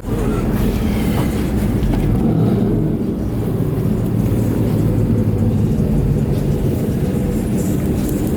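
Loud truck engine and exhaust running steadily close by, a low drone with no revving.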